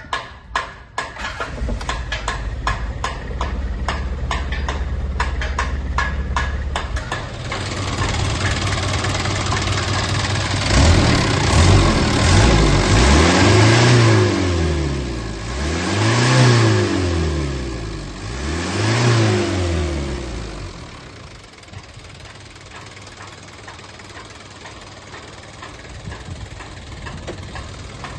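Mitsubishi Canter's 4D36 four-cylinder diesel engine running with a rapid, even clatter, then revved three times in the middle, each rev rising and falling, before it drops back to a quieter idle.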